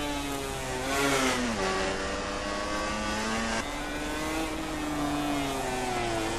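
MotoGP racing motorcycle engines revving hard, the engine note sliding down in pitch with a sudden step up about halfway through, as the bikes change gear.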